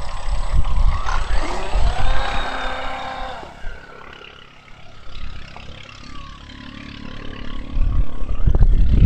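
Electric RC-airplane motor and propeller driving a homemade three-hull RC boat: its whine rises in pitch as throttle is given, then holds fainter and steady for a few seconds. A loud low rumble sits under the start and comes back near the end.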